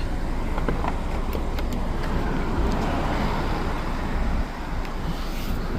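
Steady rumble of road traffic, swelling a little in the middle as a vehicle goes by.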